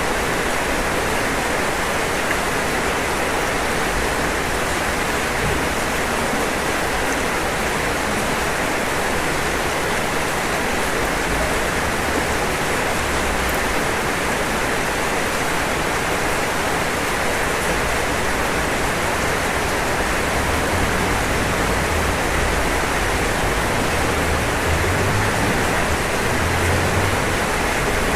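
Steady rain falling on a roof, an even hiss with no breaks or changes.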